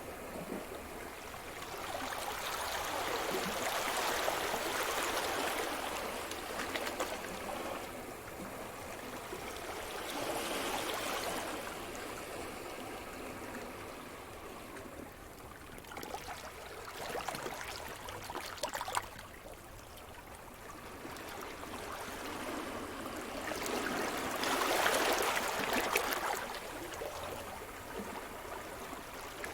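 Ocean surf: waves breaking and washing up the shore, the hissing wash swelling and fading about every six or seven seconds, with trickling water between.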